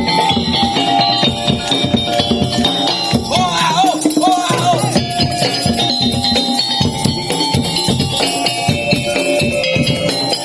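Madurese tong-tong (daul) music: a percussion ensemble beats out a fast, steady rhythm under held melodic tones. A little over three seconds in, a wavering melody bends up and down for about a second and a half.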